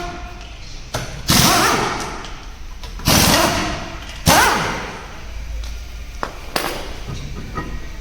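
Tools and metal parts knocking and thudding as a car's front wheel is removed. There are several loud knocks a second or two apart, each ringing briefly, the three strongest in the first half, with lighter knocks later.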